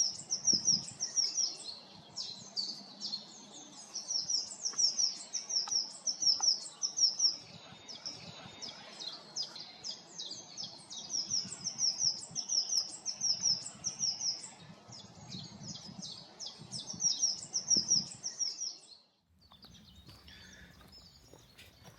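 Small songbirds calling: a steady run of short, high chirps, several a second, which stops near the end.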